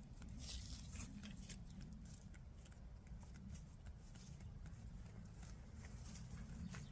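Chickens foraging: faint scattered ticks, crackles and rustles of pecking and scratching at the ground, over a steady low rumble.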